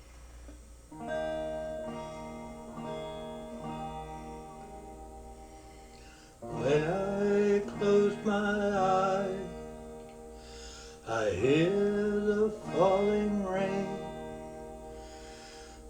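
Guitar intro to a song: soft picked notes from about a second in, then louder strummed chords from about six seconds in. The uploader admits the guitar sounds off.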